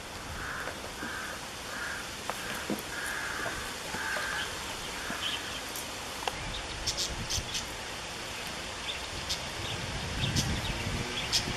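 A bird calling outdoors, a run of about eight short calls spaced roughly half a second apart in the first five seconds. Scattered small ticks follow later.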